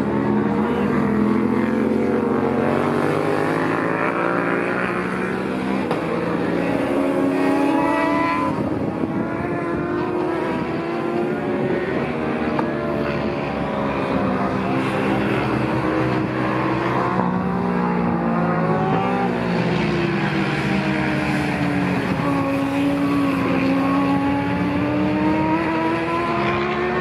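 Several racing motorcycles running on a road course, their engines revving up and dropping as they shift and pass. Several engine notes overlap, rising and falling throughout.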